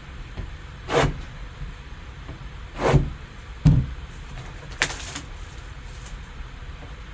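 Cardboard card box and its contents being handled: a few short sliding, rustling strokes and a click, with quiet handling in between.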